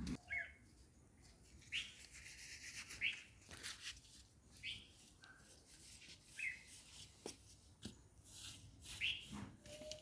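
A small bird chirping, about seven short, quick falling notes scattered through, with light rustling and scraping of hands on dry dirt and leaves.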